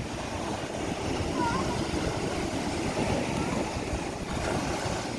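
Ocean surf washing and breaking on the beach, a steady rumbling wash that swells about a second in, with wind on the microphone. Faint distant voices.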